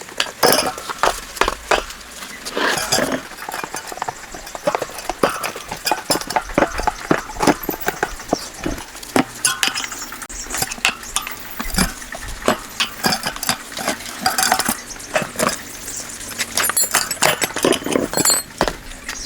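Irregular clinks and knocks of hard objects, many short strikes at uneven intervals.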